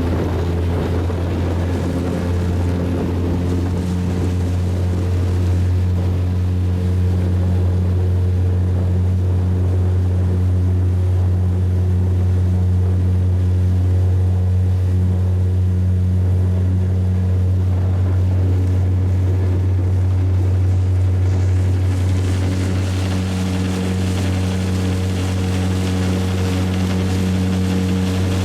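Small boat's motor running steadily, one even low hum with overtones that does not change in speed, with a little more hiss from the water in the last few seconds.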